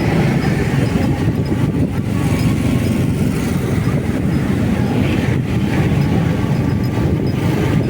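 Motorcycle on the move: a steady, loud rumble of engine, road and wind noise on the microphone.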